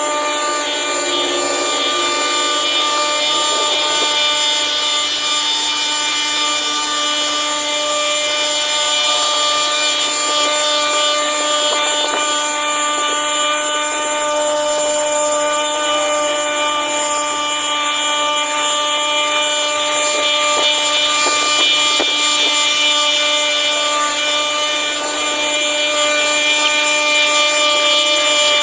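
Small petrol-engine power tool, such as a brush cutter, running steadily at high speed with an even, unchanging engine note while it cuts through overgrowth.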